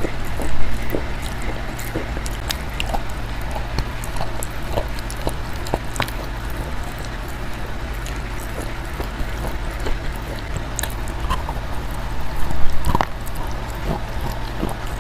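Close-miked chewing: small scattered crunches and wet mouth clicks over a steady low hum, with a louder crunchy bite about twelve seconds in.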